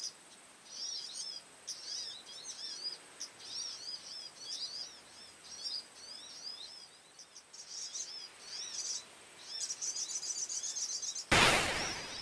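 A small songbird, a prenjak (prinia), calling in repeated quick chirping phrases, with a faster trill near the end. About a second before the end, a brief loud rushing noise covers everything.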